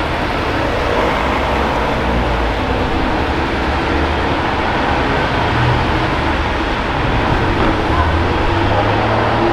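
Car engine running steadily at low revs, its low hum shifting slightly a few times, with people's voices in the background.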